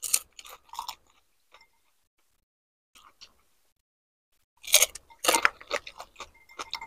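Crisp pani puri shells crunching as they are bitten and chewed with a mouthful of pani. A short burst of crunching in the first second, a lull, then dense, louder crunching from about five seconds in.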